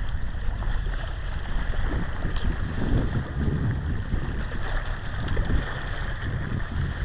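Wind buffeting the microphone: a gusty low rumble that rises and falls over a steady outdoor hiss.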